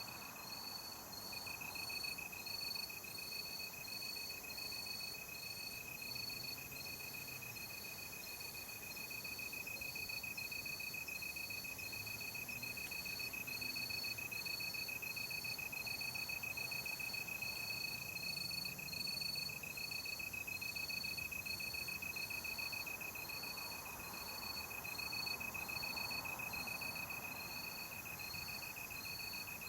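Night-time chorus of crickets: one trills on a steady high note without a break, while another chirps at a higher pitch in an even rhythm, a little more than once a second.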